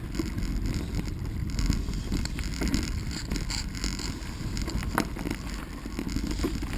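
Bicycle rolling over a dirt trail: a steady rumble of tyres and wind buffeting the microphone, with light rattles and one sharp click about five seconds in.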